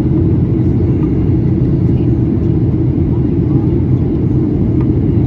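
Steady cabin roar of a Boeing 737-800 in flight, heard inside the passenger cabin: the CFM56-7B engines and the airflow make a constant low noise with no change in pitch or level.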